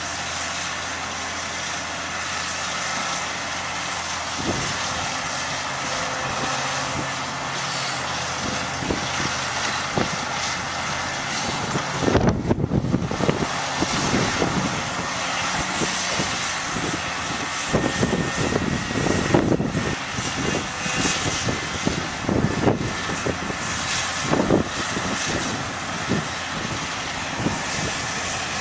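Diesel engines of heavy earthmoving machinery running steadily. About twelve seconds in, the sound turns busier, with irregular low thumps and knocks through the rest of the stretch.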